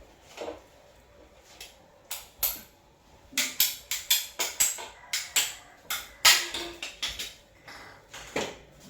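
An irregular run of sharp clatters and knocks from hard objects being handled, a few scattered at first, then coming thick and fast for several seconds before thinning out near the end.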